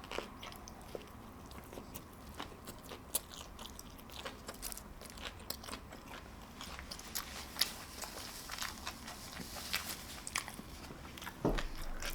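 Close-miked biting and chewing of fast food, with crisp crunching clicks scattered throughout and a short louder sound near the end.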